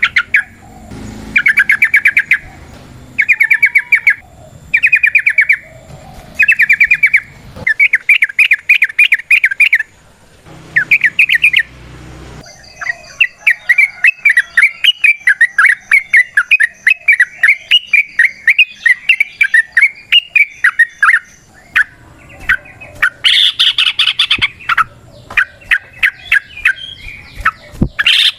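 Yellow-vented bulbuls (trucukan) singing in short bursts of rapid chattering notes, each about a second long and repeated every second or two. Through the middle the song runs on as a long unbroken stretch of chatter before the short bursts return.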